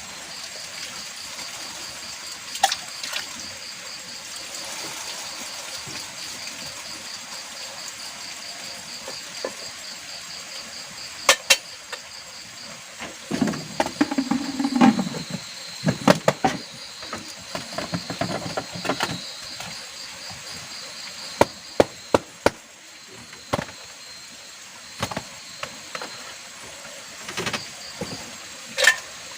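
Insects, likely crickets, chirping in a fast, even pulse over a steady hiss, with scattered sharp knocks and taps of work going on, thickest in the second half, and a brief low scraping noise about halfway.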